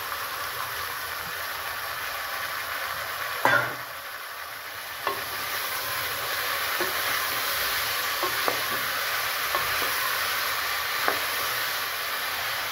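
Freshly washed flat beans and potatoes sizzling in hot oil in a pressure cooker as they are stirred with a wooden spatula, with light clicks of the spatula against the pot. One loud knock comes about three and a half seconds in.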